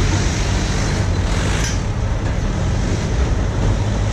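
Steady low rumble of a running vehicle, engine and road noise with no distinct events.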